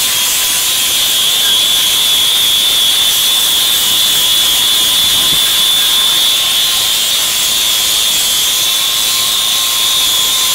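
Angle grinder with a flap disc running steadily with a high whine, sanding a Bondo-filled crack in the wooden deck.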